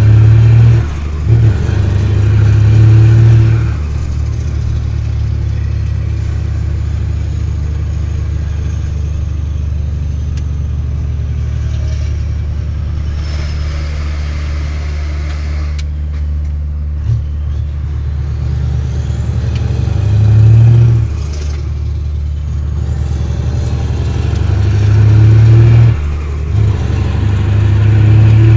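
Scania R620's V8 diesel engine running with a steady deep rumble, swelling louder several times: near the start, around twenty seconds in, and again near the end.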